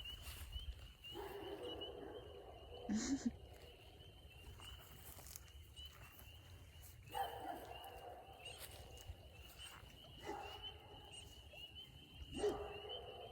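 Spring peepers calling: a steady, high-pitched chorus of peeps. A few louder, lower sounds with sudden starts break in about four times.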